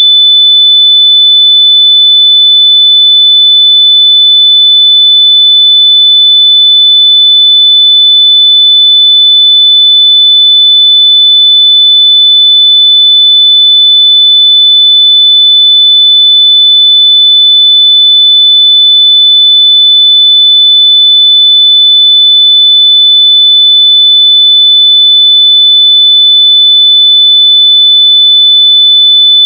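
A single loud, steady high-pitched pure tone, unbroken, played as an earbud-finder beep.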